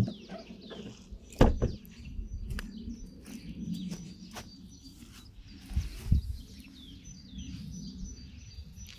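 Birds chirping in short high calls, with a few loud knocks or bumps, the loudest about a second and a half in and again about six seconds in, over a low steady hum.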